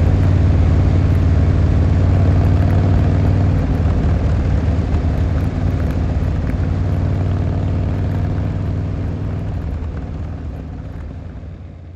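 Harley-Davidson Fat Boy Lo's V-twin engine running under way, with road noise. It drops a little about four seconds in, then fades out toward the end.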